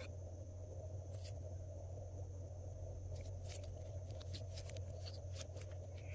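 Glossy slime being worked by hand: scattered small sticky clicks and crackles, coming thicker from about halfway in, over a steady low hum.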